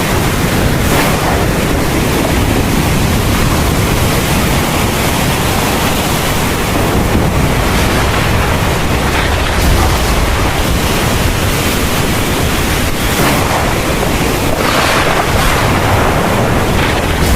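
Heavy thunderstorm rain falling in a steady, dense hiss, with a low rumble of thunder underneath that swells a little about halfway through.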